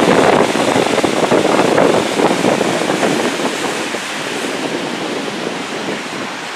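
Storm waves on Lake Michigan surging and breaking in a gale, with wind buffeting the microphone. The rush is loudest over the first two or three seconds, then eases off.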